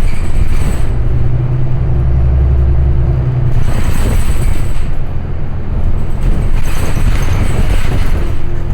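City transit bus running between stops, heard from inside the cabin: a loud low engine drone with road noise, heaviest until about three and a half seconds in, then easing as a spell of hiss comes in, with a second spell of hiss near the end.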